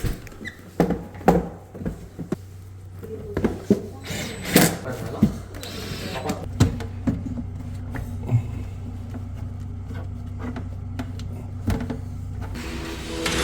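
A series of sharp clicks and knocks, closely spaced in the first half and thinning out after about seven seconds, over a steady low hum.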